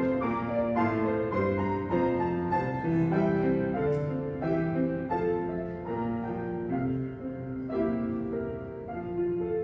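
Solo piano playing: chords and melody notes struck at a steady, unhurried pace, each ringing on into the next.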